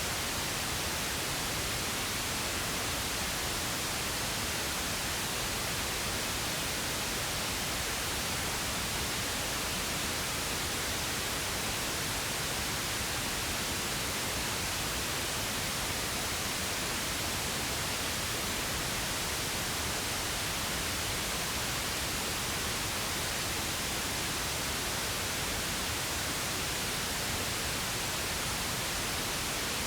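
Steady synthetic pink noise: an even, unchanging hiss spread across all pitches, with equal energy per octave so it sounds softer and less harsh than white noise.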